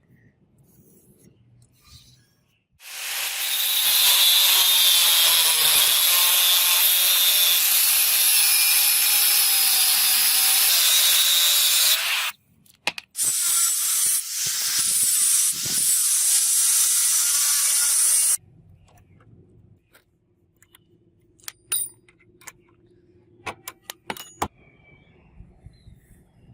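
An electric power tool working on rusted iron chain in two long runs, the first about nine seconds and the second about five, its motor pitch wavering under load. A few sharp clicks follow near the end.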